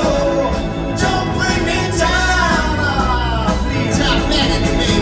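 Live rock band playing an instrumental passage: a lead melody sliding up and down over steady bass and drums.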